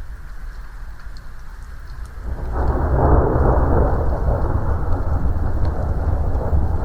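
Thunderstorm: rain falling, and about two seconds in a long, low rumble of thunder swells up and rolls on.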